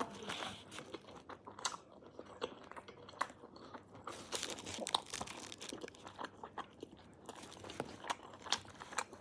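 Close-up eating of a döner kebab: wet chewing and crunchy bites, with many small irregular crackles and clicks.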